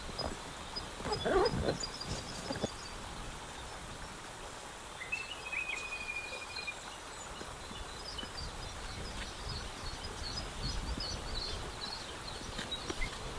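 Outdoor countryside ambience: small birds chirping in quick repeated high notes, with a thin held whistle of a few seconds near the middle. About a second in there is a brief, louder low sound.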